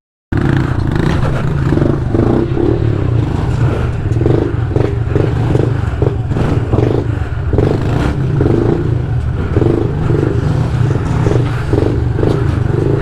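A small 110cc pit bike engine running steadily while riding, at a fairly constant pitch. It cuts in suddenly just after the start.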